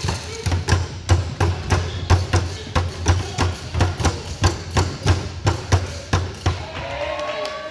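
A basketball bouncing on a gym floor, about three even bounces a second, stopping shortly before the end.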